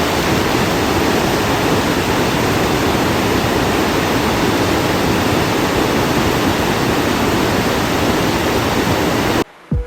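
Mae Ya Waterfall's falling water, a loud steady rush with no break. It cuts off suddenly near the end.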